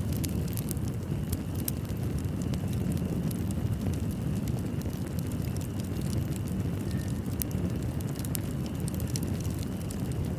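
Wood fire in a fireplace crackling, with a steady low rumble under frequent sharp snaps and pops.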